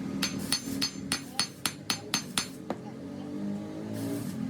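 Hammer striking steel in about ten quick, even blows, each with a short metallic ring, then stopping a little under three seconds in.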